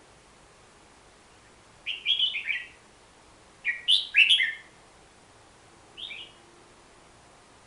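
A bulbul (merbah) calling in three short bursts of quick, stepped, downward-falling notes. The second burst is the loudest and the third is brief.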